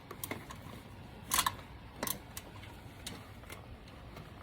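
Ratchet with a 13 mm socket on an extension working a thermostat housing bolt on a 5.7 Hemi: scattered metallic clicks and taps, loudest about a second and a half in.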